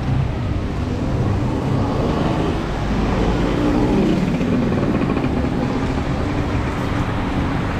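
Road traffic on a rain-wet city street: a motor vehicle engine passes close by, its note rising and falling and loudest about four seconds in, over a steady traffic rumble.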